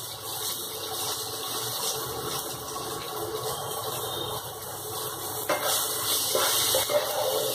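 Spice paste and soaked raw chickpeas frying in oil in a non-stick kadai, a steady sizzle while the masala is sautéed. From about five and a half seconds a wooden spatula stirs it, and the sizzle grows louder with scraping strokes.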